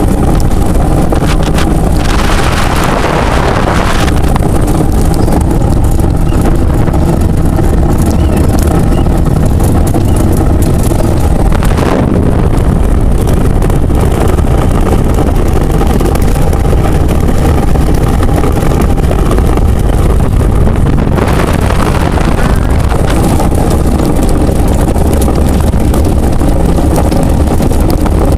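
Ice boat travelling over lake ice: a loud, steady low rumble with wind buffeting the microphone.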